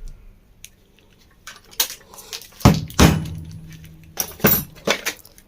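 Metal fan parts and tools clinking and knocking as a reassembled ceiling fan is handled. There are several separate sharp knocks, the loudest in the middle, and one leaves a brief low ring.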